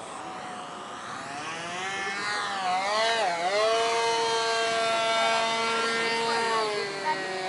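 Radio-controlled model airplane's motor whining as it flies, getting louder and climbing in pitch, dipping sharply in pitch about three seconds in, then holding a steady high pitch that eases slightly lower near the end.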